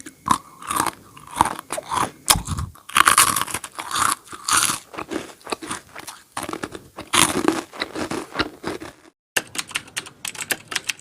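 Close-miked eating: crisp bites and crunchy chewing of snacks, many sharp crackling strokes, with a short silent break a little after nine seconds.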